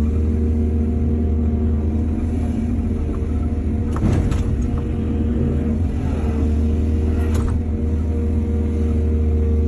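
Excavator's diesel engine running steadily, with two sharp knocks about four and seven seconds in.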